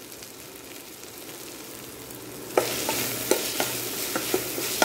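Onions and green chillies sizzling in a stainless steel pot. About two and a half seconds in the sizzle gets louder and a spoon starts stirring, knocking against the sides of the pot every half second or so.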